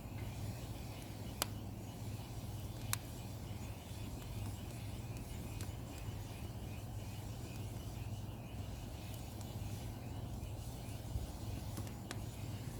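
Burning pine firewood giving a few sharp single pops, about 1.5 s, 3 s and 12 s in, over a steady low hum and faint hiss.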